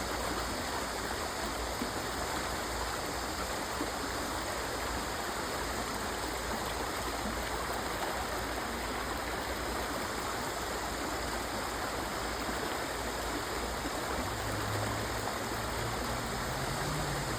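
Stream water rushing steadily. About fourteen seconds in, a low hum joins it and rises slightly in pitch near the end.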